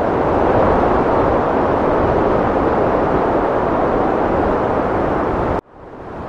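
Heavy wind blowing as a steady, loud rush of noise. It cuts off suddenly about five and a half seconds in and swells back up within half a second, where the recording is looped.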